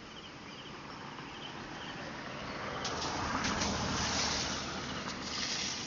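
A road vehicle passing close by: its tyre and engine noise swells to a peak about four seconds in and then fades, with a second, shorter swell near the end. Faint rhythmic insect chirping runs underneath.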